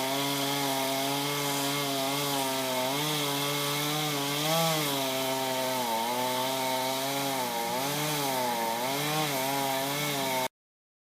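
Chainsaw running at high revs while cutting tree limbs, its engine pitch dipping again and again as the chain bites into the wood and recovering between cuts. The sound cuts off suddenly near the end.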